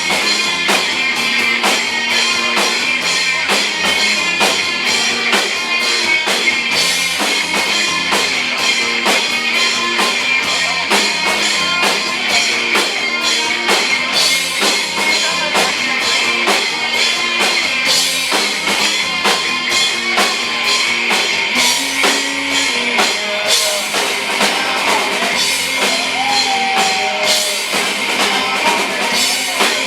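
Live rock band playing: electric guitars and a drum kit, loud and continuous, with little bass.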